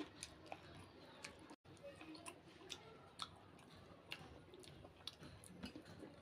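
Close-up chewing and biting of a chicken leg: irregular moist clicks and smacks from the mouth, with the sound cutting out briefly about one and a half seconds in.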